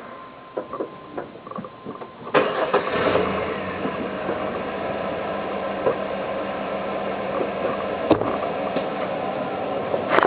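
Pickup truck's V6 engine starting about two seconds in, after a few light clicks, and settling straight into a steady idle that is a little bit quiet.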